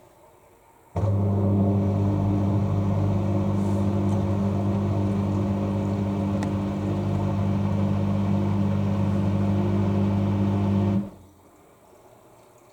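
Washing machine drain pump running as a steady, even hum that switches on abruptly about a second in and cuts off after about ten seconds, pumping water out during the first drain of a wash cycle.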